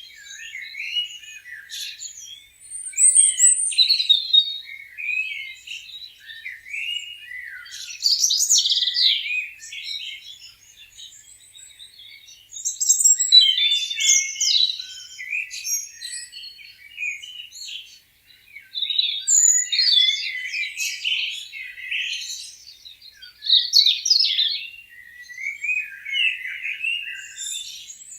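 A chorus of small birds chirping and singing, many short chirps and trills overlapping in bursts that come and go.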